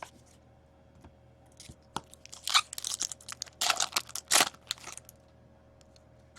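Plastic hockey card pack wrapper crinkling and tearing as it is opened: a run of sharp crackles lasting about three seconds, loudest near the end.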